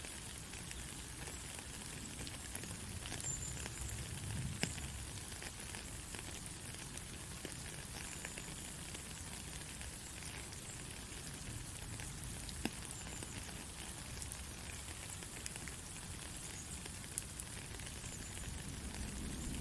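Steady rain falling, an even hiss with scattered sharp ticks of drops striking close by.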